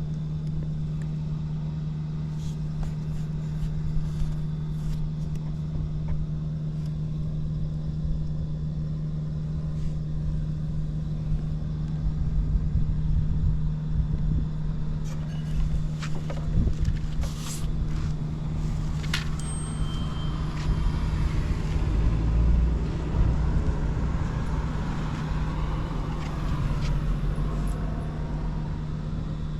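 Early Honda Andon Cub C70's single-cylinder four-stroke engine running steadily, with a run of clicks and louder, uneven running around the middle. The seller calls it free of abnormal noise.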